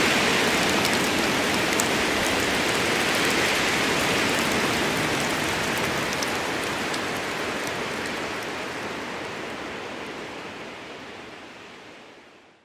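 Steady rain falling, with scattered sharp drop ticks through the hiss, fading out gradually over the last few seconds.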